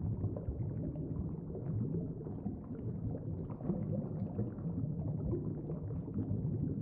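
Underwater ambience: a steady, low, bubbling water noise with no distinct events.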